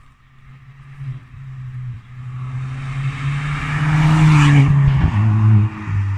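Ford Fiesta ST MK7's turbocharged 1.6 EcoBoost four-cylinder accelerating as the car comes closer. The engine note rises and gets louder, peaks about four seconds in, then drops sharply in pitch about five seconds in as it goes by.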